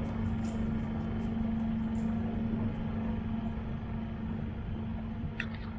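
A boat's engine running steadily, a low, even hum that holds through.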